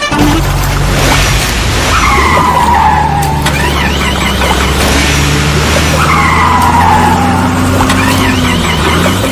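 Cartoon vehicle sound effects: a steady low engine rumble with two falling tyre squeals, about four seconds apart, like skidding.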